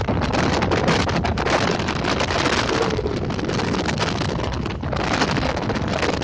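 Strong wind buffeting the microphone: a steady rushing noise broken by constant crackling gusts.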